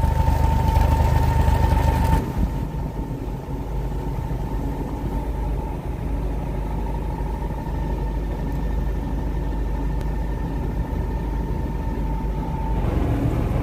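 Boat engine running steadily, a low hum with a thin steady whine over it; the noise eases a little about two seconds in.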